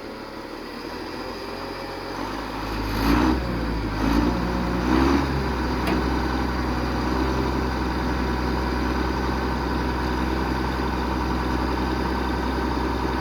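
Loader engine running, building up over the first few seconds, with three short surges about a second apart, then running steadily.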